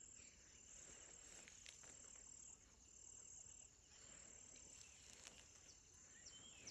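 Near silence, with faint, steady high-pitched insect chirring and a few soft clicks.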